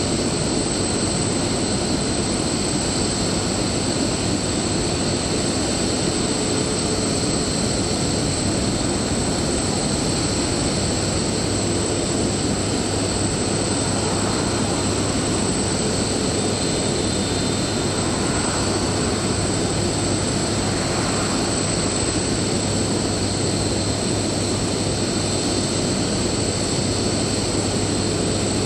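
Jet aircraft engines running steadily at the airport, a continuous rush with a high steady whine over a low hum.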